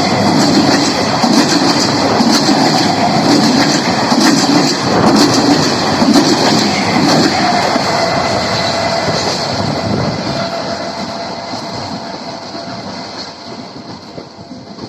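Indian Railways EMU electric suburban train running past at full speed, its wheels clattering rhythmically over the rail joints in the 'galloping' beat. The clatter fades steadily over the last several seconds as the train draws away.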